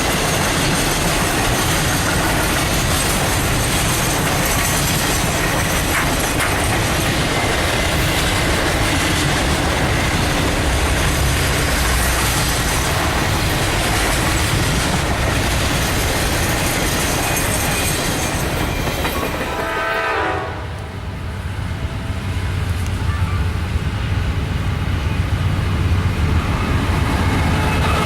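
A train passing close by: loud, steady rail and wheel noise with clickety-clack. About twenty seconds in the noise drops away suddenly, then a low rumble builds.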